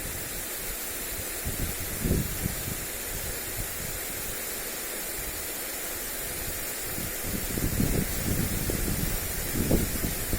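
Lawn sprinkler spraying water onto grass, a steady hiss, with wind buffeting the microphone in low gusts about two seconds in and again through the last few seconds.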